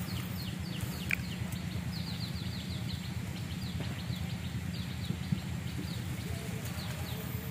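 Small birds calling: many short, high chirps, each sliding downward, repeated in quick runs, with one lower falling note about a second in, over a steady low rumble.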